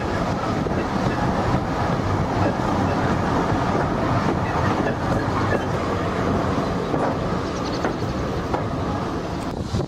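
Heritage railway carriage running along the line, heard from inside the coach: the steady noise of the wheels on the track and the carriage under way.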